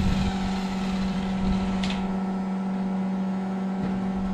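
A machine running with a steady, even hum, with a faint click about two seconds in.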